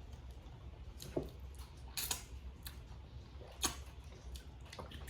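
Faint, scattered sharp clicks and ticks at irregular intervals, roughly one a second, over a low steady hum.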